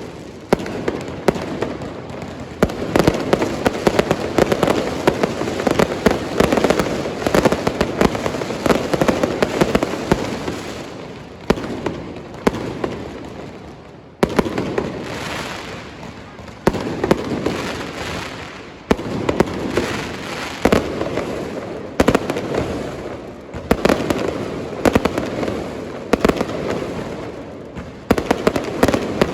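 Aerial fireworks show: rapid, continuous volleys of shell bursts with crackling. The volleys ease off briefly a few times before picking up again.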